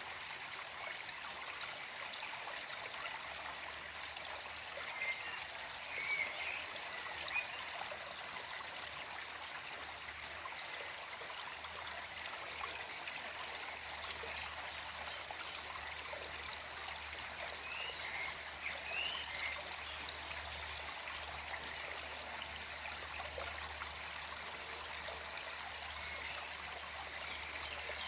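Gentle forest stream running with a steady, even rush of flowing water. Short bird chirps sound a few times in the background.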